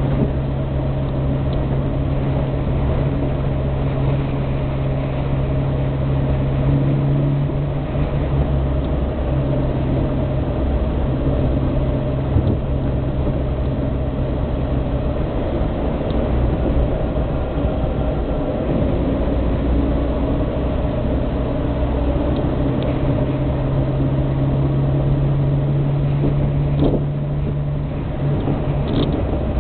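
Austin A40 Farina's four-cylinder BMC A-Series engine running as the car drives along, heard from inside the cabin. The engine note is steady but changes pitch several times.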